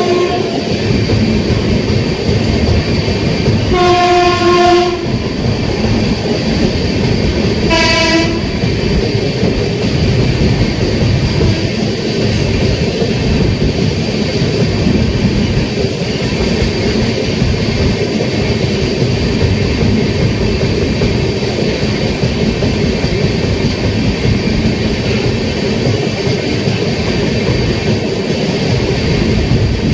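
Passenger train running at speed with a steady rumble of wheels on track, its locomotive horn sounding: a long blast about four seconds in and a short one about eight seconds in.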